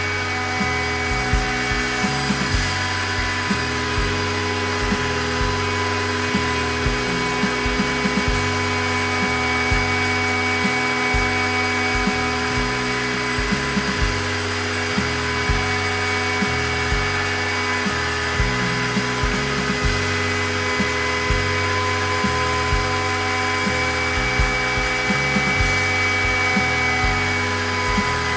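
Background music with a steady bass line, over the steady whine of a DIY CNC router's spindle running as it cuts.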